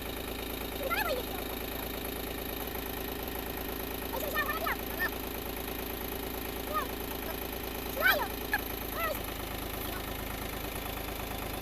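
Tractor engine idling steadily, with several short pitched calls sliding up and down over it, the loudest a little past the middle.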